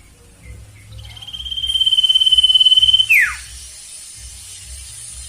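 Sirtu bird calling a long, fast-trembling trill on one high pitch that swells louder over about two seconds and ends in a quick downward slide. A second trill begins right at the end.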